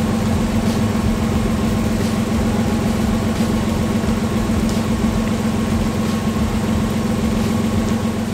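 Nissan Skyline's engine idling steadily.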